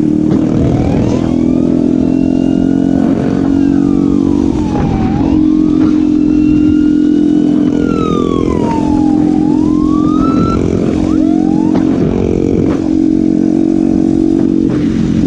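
Motorcycle engine running steadily under way, with a siren wailing over it, its pitch sliding down and back up several times.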